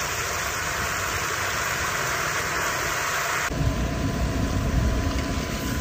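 Cabbage frying in a wok over a camp stove, a steady hiss of sizzling. About three and a half seconds in, the sound changes to a steady low hum with a faint thin tone.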